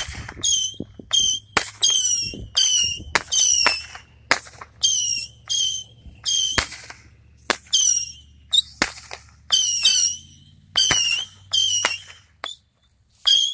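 A consumer firework barrage firing shot after shot, about one to two a second. Each shot is a sharp pop followed by a short, high whistle that falls slightly in pitch. There is a brief lull near the end before more shots follow.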